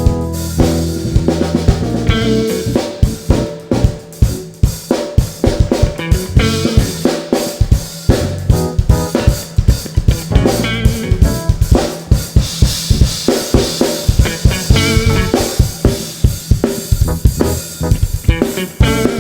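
Live band playing an instrumental groove, led by a drum kit with kick drum, snare and rimshots hit in a dense, steady rhythm, with bass and other pitched instruments underneath.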